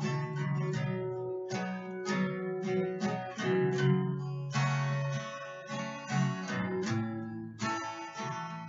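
Acoustic guitar strumming chords in a steady rhythm, each strum ringing on into the next, with no singing.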